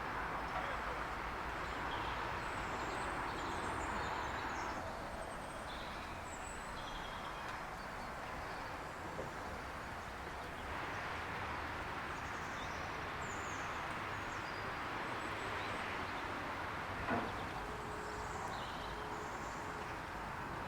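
Steady outdoor background noise with scattered bird chirps and a single sharp click near the end.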